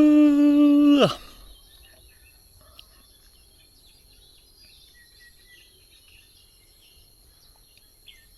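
A loud, steady tone lasting about a second that drops in pitch as it cuts off, followed by faint outdoor ambience of scattered bird chirps and a thin, steady insect whine.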